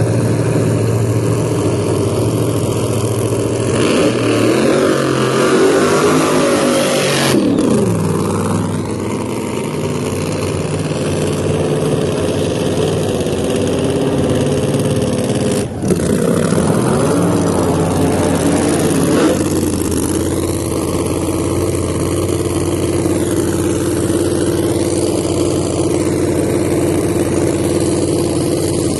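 Drag car engines idling and revving, the pitch rising and then falling off sharply about 7 and 16 seconds in, then settling into a steady loud idle.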